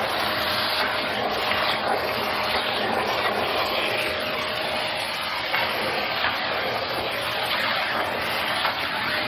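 Shark vacuum cleaner running steadily on carpet: a constant rush of air with a thin steady whine from the motor.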